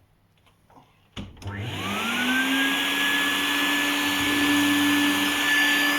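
Henry vacuum cleaner switched on with a click about a second in, its motor whining up to speed over about a second and then running steadily, drawing air through a filter held off the air intake by a spacer.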